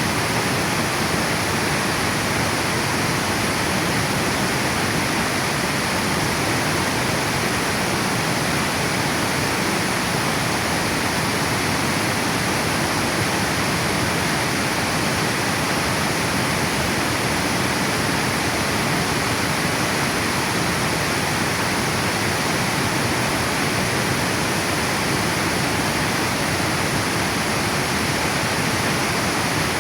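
Water pouring over a river dam weir, a steady, unbroken rushing of falling water.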